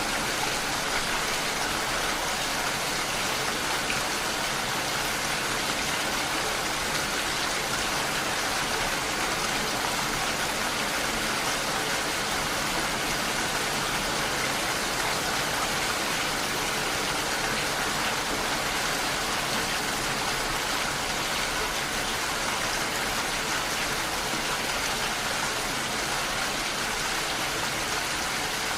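Steady rain, drops striking window glass, an even hiss that doesn't change.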